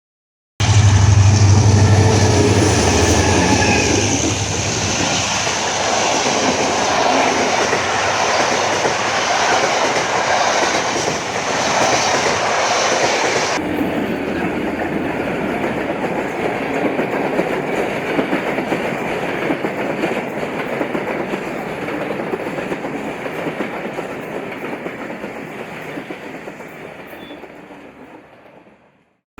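Train running on the rails, a loud, steady rumbling noise. The sound changes abruptly about halfway through and fades out near the end.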